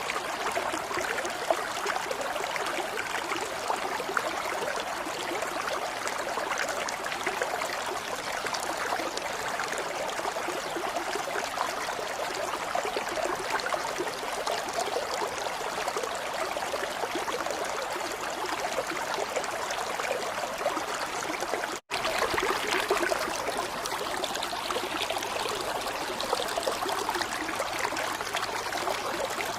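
Running water flowing and trickling steadily, like a small stream. The sound drops out completely for an instant about 22 seconds in, then carries on.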